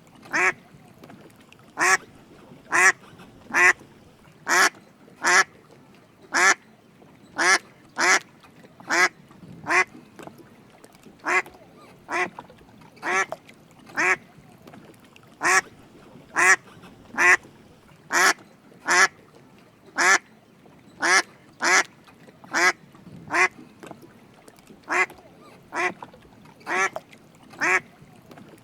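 Drake mallard calling: short quacks repeated about once a second, some in quick pairs.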